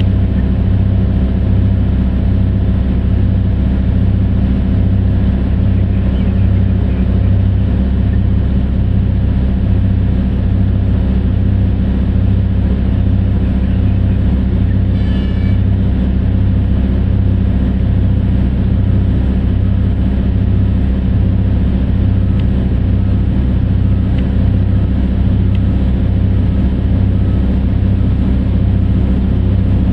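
Large diesel engine of heavy mining machinery running steadily, a loud deep rumble with an even pulsing beat a little more than once a second.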